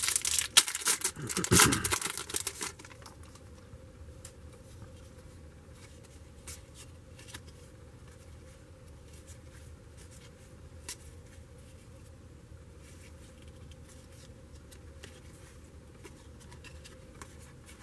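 A trading-card pack wrapper crinkling and tearing open for the first three seconds or so. Then come faint soft ticks and slides of cardboard trading cards being handled and flipped through one by one.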